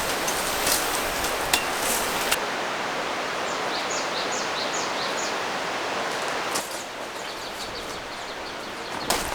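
Steady rushing of a mountain valley stream, with a few sharp clicks in the first couple of seconds. A bird chirps a quick run of short high notes near the middle, and about two-thirds of the way in the rushing drops a little quieter.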